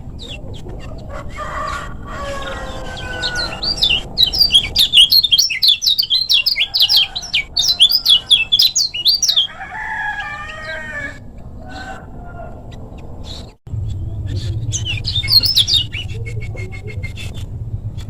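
Kecial kuning songbird singing a fast, high-pitched chattering burst of song for about five seconds, then a shorter burst near the end. Lower-pitched calls come in before and between the bursts.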